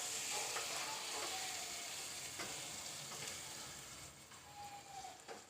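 Mutton, onions, tomatoes and spices sizzling in hot oil in a pot while a spoon stirs them, with a few light clicks and scrapes of the spoon. The sizzle fades away near the end.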